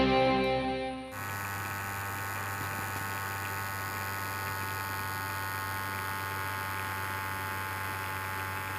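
Background rock music cuts off about a second in, leaving a steady electric hum with a buzzing edge that holds without change.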